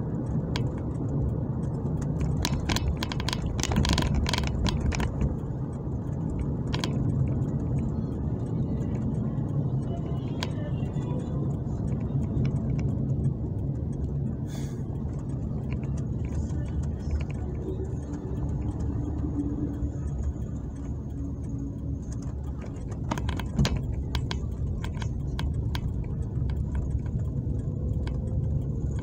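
Steady low rumble of a car's engine and tyres on wet road, heard from inside the moving car, with scattered light clicks and rattles, a cluster a few seconds in and more near the end.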